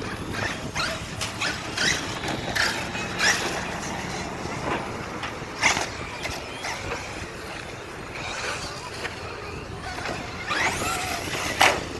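Radio-controlled truck running, its whine rising and falling, with repeated sharp knocks and clatters.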